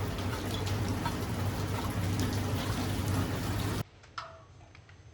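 Steady hiss of rain with scattered small drop clicks. It cuts off suddenly a little before the end, leaving only a few faint drips.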